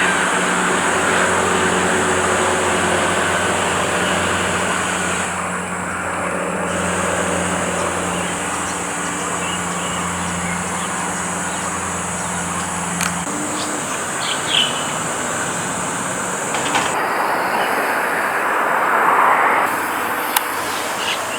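Steady rumble of vehicle noise with a low engine-like hum that fades out about two-thirds of the way through.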